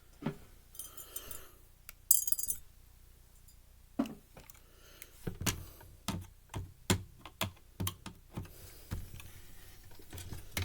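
Small clicks, taps and clinks of a screwdriver and screws being handled on a Blu-ray player's casing during disassembly. A bright short clink about two seconds in is the loudest sound, followed by a run of irregular clicks and knocks from about five seconds on.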